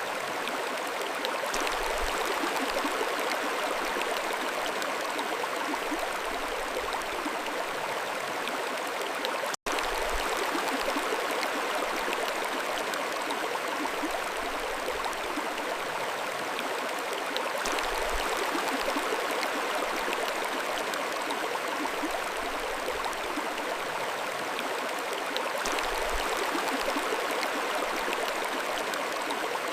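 Mountain stream flowing over stones, a steady rushing babble of water, with a split-second dropout to silence about ten seconds in.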